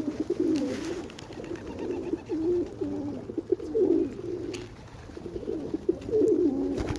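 Several pigeons cooing continuously with low, warbling, repeated calls, with a few sharp clicks among them.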